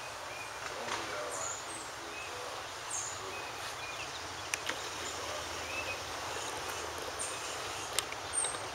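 Outdoor background noise with small birds chirping repeatedly in short high notes, and a few sharp clicks, the clearest about halfway through and near the end.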